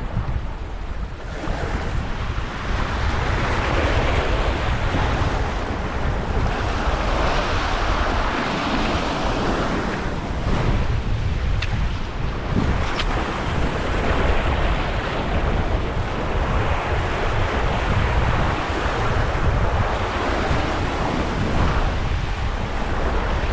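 Wind buffeting the microphone over sea surf washing on rocks, the wash swelling and easing every few seconds.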